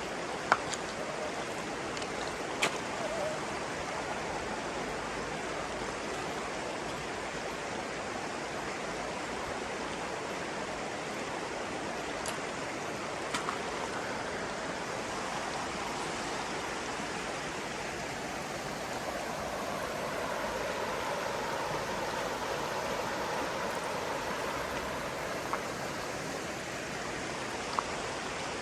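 Stream water flowing steadily, a continuous rushing and gurgling, with a few brief sharp clicks or chirps near the start, in the middle and near the end.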